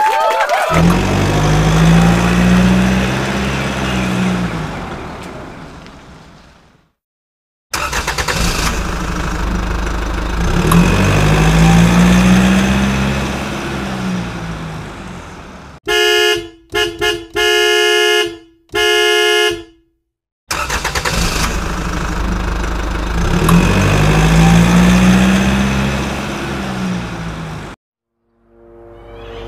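A vehicle engine passes by three times, its pitch rising and then falling each time. Between the second and third pass, a horn honks four times, the last two blasts longer.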